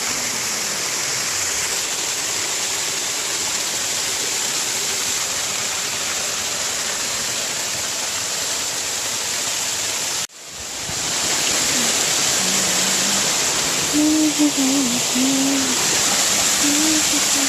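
Steady rush of a waterfall's falling water, broken by a brief sharp dropout about ten seconds in before it picks up again.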